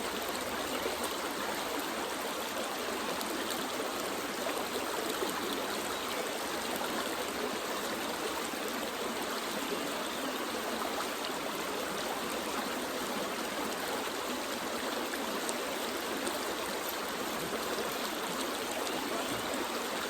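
Shallow creek water flowing over rocks: a steady rushing and trickling.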